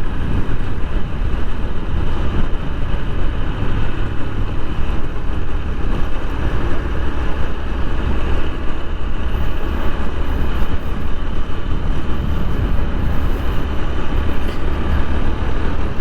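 Steady wind rush and road noise on a chin-mounted action-camera microphone while riding a TVS Apache RTR 160 4V motorcycle, its single-cylinder engine running underneath.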